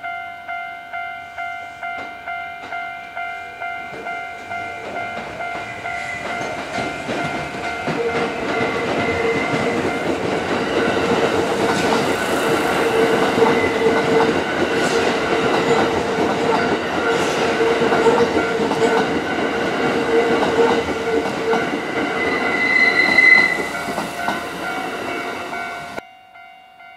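A Japanese level-crossing warning bell rings in a steady double-tone about twice a second. Then an electric commuter train passes through the crossing, with rising rumble, wheel clatter over the rail joints and a steady motor hum. A brief high-pitched tone comes near the end, and the train sound cuts off suddenly, leaving only the bell faintly.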